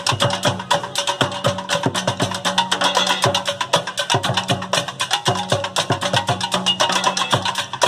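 Percussion ensemble playing drums and instruments made from recycled materials in a fast, dense batucada-style rhythm of sharp, many-per-second strikes.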